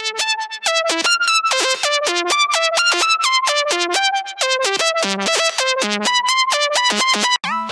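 Xfer Serum software synthesizer playing a plucked-synth preset: a fast run of short, bright notes that jump up and down in pitch several times a second.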